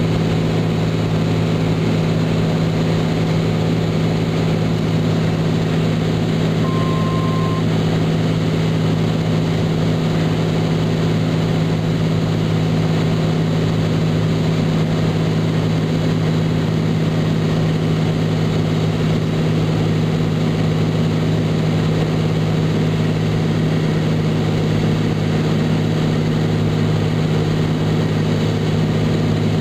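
Turbocharged Cessna T206 Stationair's six-cylinder engine and propeller droning steadily in cruise or descent, heard from inside the cabin. A single short beep sounds about seven seconds in.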